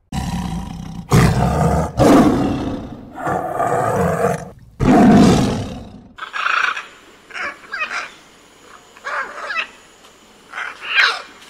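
A tiger roaring and growling for about six seconds, with three loudest roars; then a rainbow lorikeet giving a series of short, high calls.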